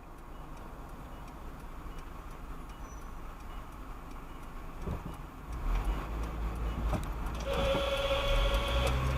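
Vehicle and road rumble growing louder, with a steady horn-like tone sounding for about a second and a half near the end.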